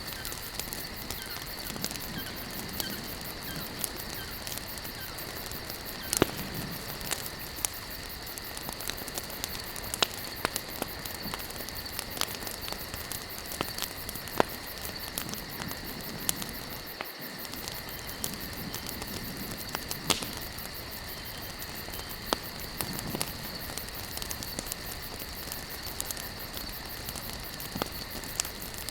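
Wood campfire crackling: a constant run of small snaps with a few louder pops, about four of them standing out, over a steady high-pitched drone.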